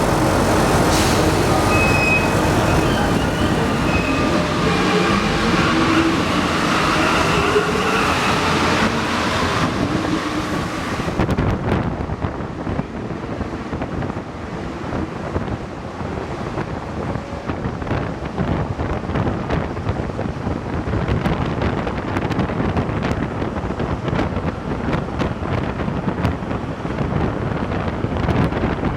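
Santiago Metro NS-88 rubber-tyred train in motion. For roughly the first ten seconds there are whining tones, some sliding in pitch, over the running noise; then the whine drops away, leaving a steady rumble and rush of the train running.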